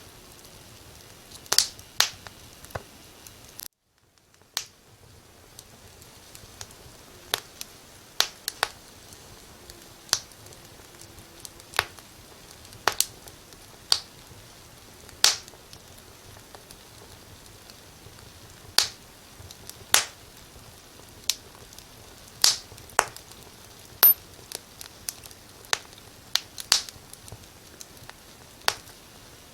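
Wood fire crackling: irregular sharp pops and snaps over a steady low hiss. About four seconds in the background cuts out for a moment and fades back in.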